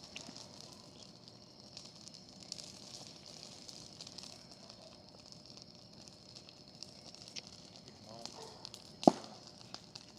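Bonfire crackling, with scattered small clicks and pops over a steady hiss and one loud sharp pop about nine seconds in.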